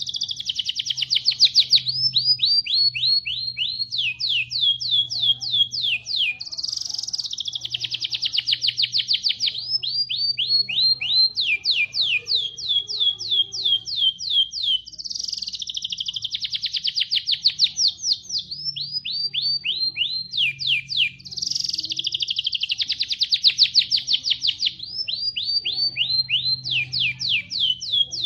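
Rambetuk laut songbird singing a canary-style song ('isian kenari'): fast trills of high, downward-sweeping notes. The same phrases come back about every seven seconds.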